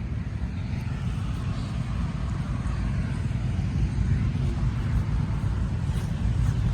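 Engine running steadily nearby, a continuous low rumble.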